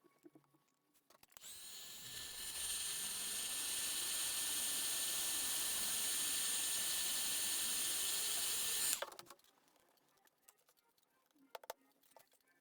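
A small high-speed motorised tool runs for about seven seconds: it spins up with a high whine and hiss, holds steady, then cuts off suddenly.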